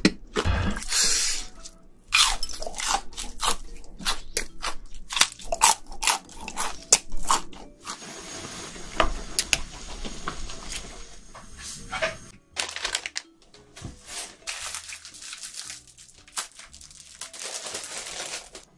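Crunching and chewing of shrimp: a dense run of sharp crackles that thins out after about twelve seconds.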